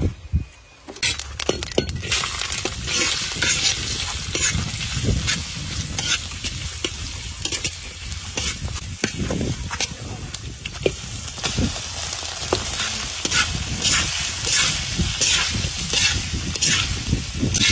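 Chopped garlic and chilies sizzling in hot oil in a wok, the sizzle starting about a second in. A metal spatula scrapes and stirs against the wok throughout, and shredded snake meat is being stir-fried with quick, repeated scraping strokes near the end.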